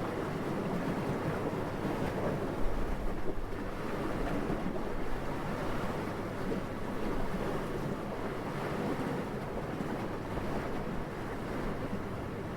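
Steady wind blowing, a dull, low rush of noise with slow swells, and one brief louder low buffet about two and a half seconds in.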